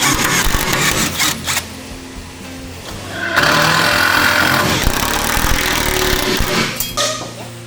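A power tool running in two bursts, a short one at the start and a longer one of about three seconds from the middle, over background music.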